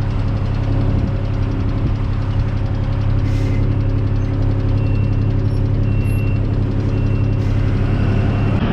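Farm vehicle engine running steadily at a constant speed. Faint short high beeps come about once a second in the second half.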